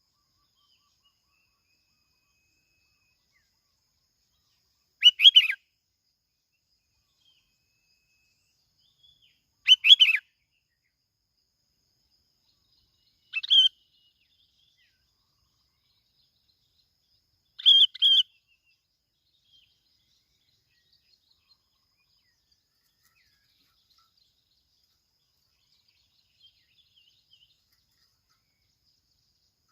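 A bulbul (Vietnamese 'bông lau') calling in short, bright phrases, four times at gaps of about four seconds, with a couple of faint notes near the end.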